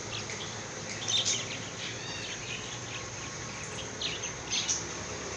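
A chorus of many small caged birds chirping and twittering at once, with louder chirps about a second in and again near the end.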